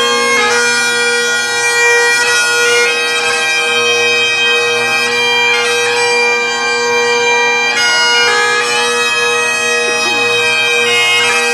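Bagpipes playing a tune: a changing chanter melody of held notes over steady, unbroken drones.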